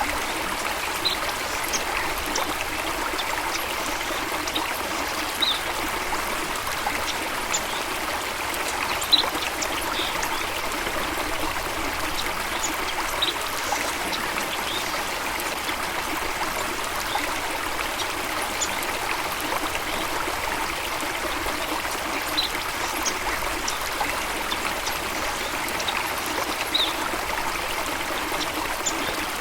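Steady running water of a stream or small waterfall, trickling and splashing without a break, with short sharp high sounds scattered through it every second or two.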